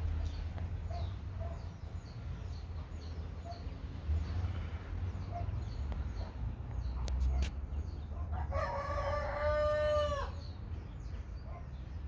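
A bird's single long call, just under two seconds, starting about two-thirds of the way in, holding its pitch and then dropping at the end. It sits over a steady low rumble.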